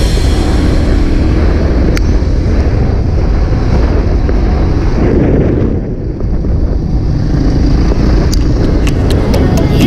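Motorcycle engine running under way, loud and rumbling, with wind noise on the microphone; it eases briefly about six seconds in, and a few sharp ticks come near the end.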